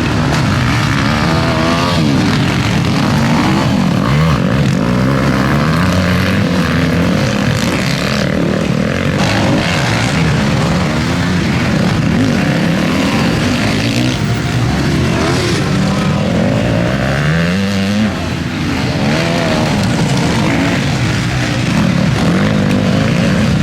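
Several motocross bikes racing together, their engines revving up and falling back again and again as they accelerate and change gear. The overlapping pitches rise and fall throughout.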